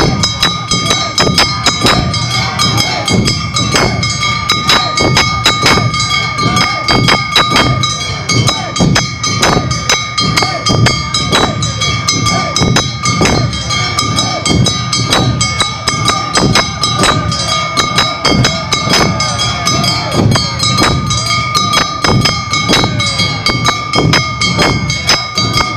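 Awa Odori festival band (narimono) playing: drums and kane bells striking a fast, even beat of about three to four strokes a second under steady high ringing tones.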